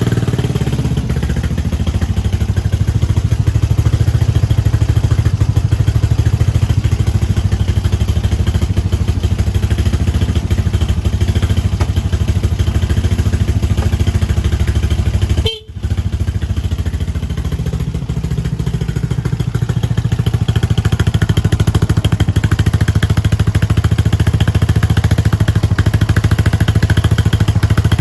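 Suzuki Address V125 scooter's single-cylinder four-stroke engine running at a steady idle just after being started. It breaks off briefly about halfway, then runs on steadily.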